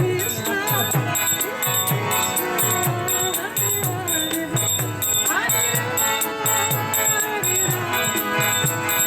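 Kirtan instrumental passage: hand cymbals (karatals) clash in a fast steady rhythm over a drum beating about twice a second, with held musical tones underneath.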